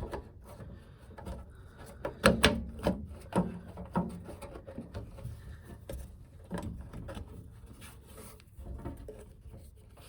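Plastic drain pump filter of an Electrolux Quickwash commercial washing machine being worked back into its housing. Irregular knocks, scrapes and rubbing come as it fails to seat, with a cluster of louder knocks two to four seconds in.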